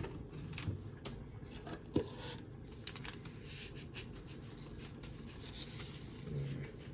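Light clicks and scratches of salt being added to a mixing bowl, with one sharper click about two seconds in.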